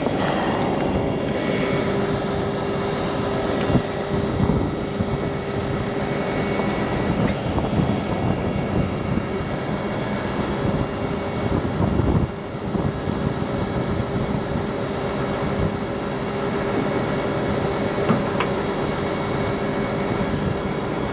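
Heavy truck's diesel engine running steadily, with a low drone and scattered clanks and knocks.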